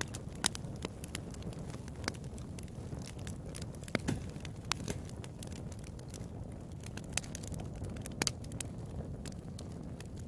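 Wood fire in a fireplace crackling, with scattered sharp pops at irregular intervals over a low steady rumble of the flames.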